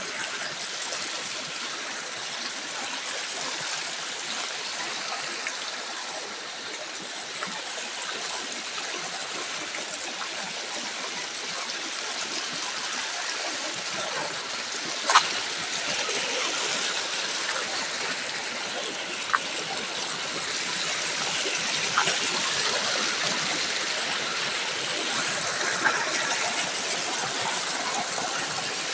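Stream rushing steadily, with a few sharp clicks scattered through, the loudest about halfway.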